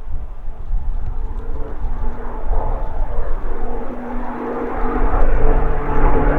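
Pilatus PC-7 turboprop in flight, a rough rushing engine and propeller noise that takes on a steady droning tone about four seconds in as the aircraft comes closer. Heavy low rumble, likely wind on the microphone, runs underneath.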